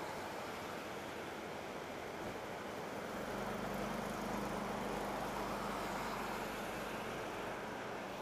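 Steady rushing noise of flowing floodwater and traffic, with a vehicle engine humming past from about three seconds in until near the end.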